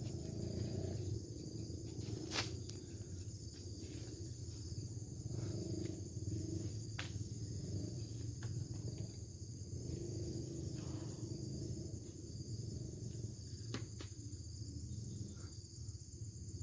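Steady high-pitched insect chorus, with a low rumble beneath it and a few brief clicks.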